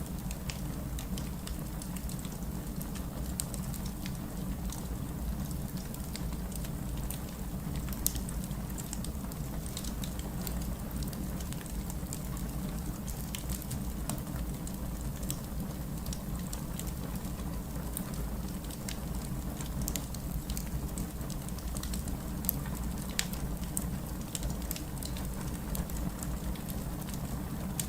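Fireplace fire crackling, with irregular sharp pops scattered over a steady low rumble.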